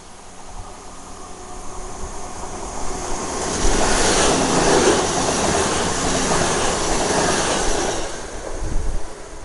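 CrossCountry Voyager diesel-electric multiple unit approaching and passing along the platform: a hum that builds steadily, then loud wheel-and-engine noise for about four seconds from about a third of the way in as the carriages go by, fading away near the end.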